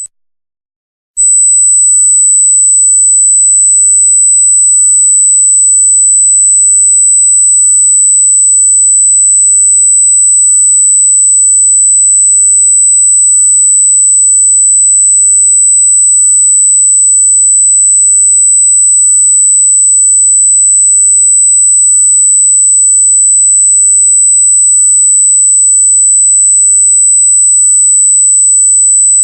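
A loud, steady, very high-pitched pure electronic tone, a single unchanging pitch. It starts abruptly about a second in after a short silence.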